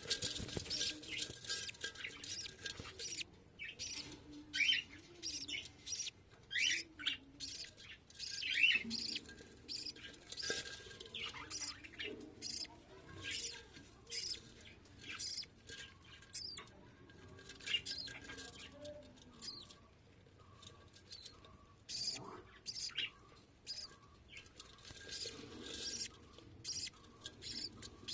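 Budgerigars chirping: many short, sharp chirps coming in quick irregular bunches.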